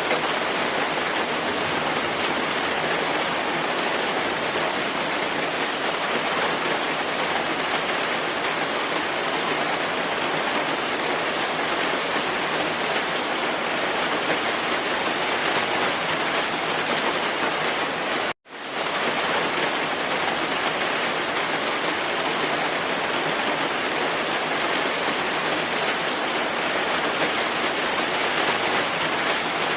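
Steady, even rain falling on a surface, a dense patter of drops with fine ticks on top. About two-thirds of the way through, it cuts out completely for a split second and comes straight back.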